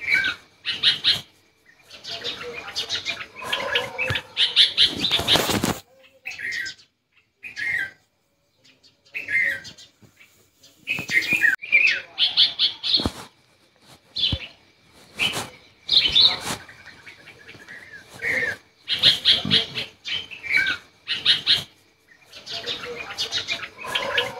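Birds chirping in repeated short bursts of quick high calls, with a few short falling calls between them.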